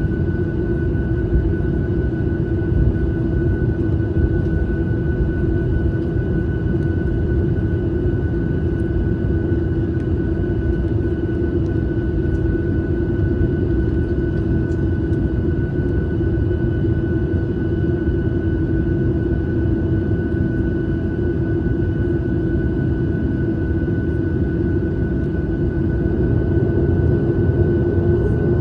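Airliner cabin noise: the engines and airflow make a steady low rumble with an even hum and a higher whine held over it. It swells slightly near the end.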